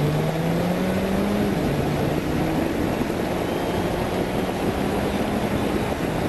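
Suzuki GSX1200's inline-four engine pulling under way, its pitch rising and then dropping slightly about a second and a half in before running steady. Heavy wind and road rush runs over it.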